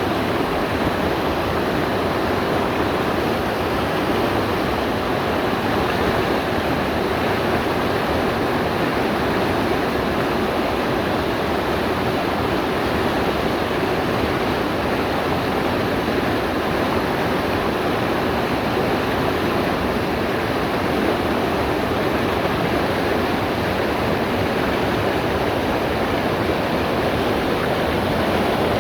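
Mountain stream rushing over rocks, a steady loud roar of water with no change throughout.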